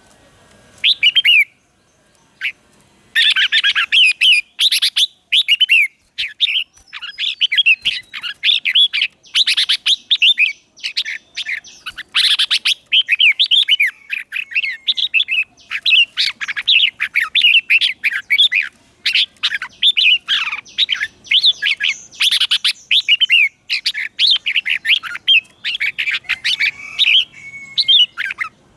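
Red-whiskered bulbul singing rapid, warbling whistled phrases. A short phrase comes about a second in, then the song runs almost without a break from about three seconds in.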